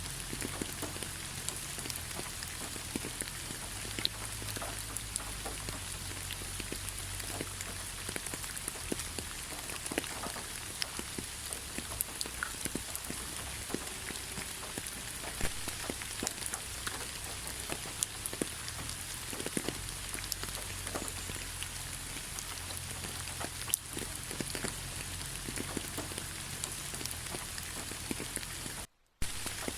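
Steady rain falling, with many separate drops ticking sharply close by over the even hiss of the shower. Near the end the sound cuts out completely for under a second, then resumes.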